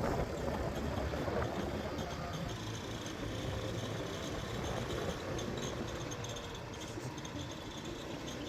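Motorcycle running steadily while riding, engine and road noise without change.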